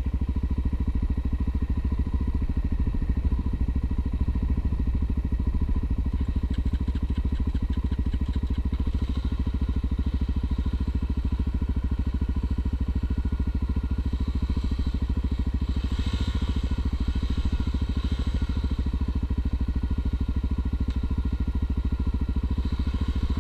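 Honda XR250 Tornado single-cylinder four-stroke motorcycle engine running at a steady, unchanging speed, its firing pulses even throughout.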